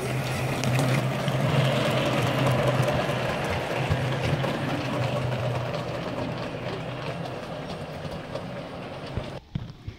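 O gauge electric model train running along the garden railway track: a steady motor hum with the rolling rumble of wheels on rail. It is loudest about two seconds in, then fades as it moves off, and dies away just before the end.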